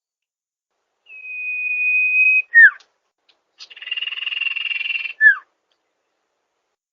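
Sirtu bird singing: a long steady whistle ending in a short falling note, then a rapid buzzy trill that also ends in a short falling note.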